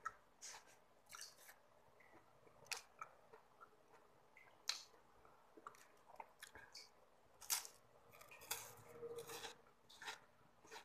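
Close-up chewing and biting of a crisp rolled wafer stick: irregular sharp crunches, with louder crunches about five and seven and a half seconds in.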